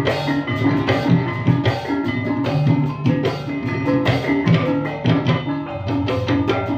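Ebeg dangdut-style accompaniment music: drums striking a steady rhythm under a melody of pitched percussion.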